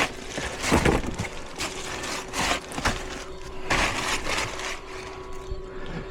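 Furnace draft inducer motor running with a steady hum and irregular rough, scraping rattles, sounding like a diesel; the inducer wheel sounds damaged.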